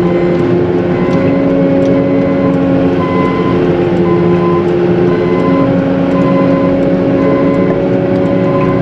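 Diesel engine of a CAT 906M compact wheel loader running steadily under load while it pushes heavy wet slush, its pitch shifting slightly about halfway through. A faint short beep repeats throughout.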